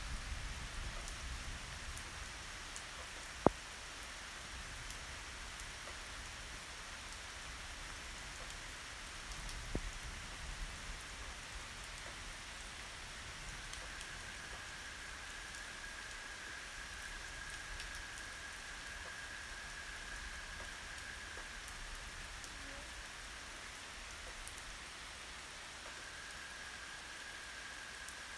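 Steady rain falling, with a low rumble in the first couple of seconds. A sharp click about three and a half seconds in is the loudest sound, and a fainter one comes near ten seconds. A faint steady high-pitched tone comes in about halfway through, stops, and returns near the end.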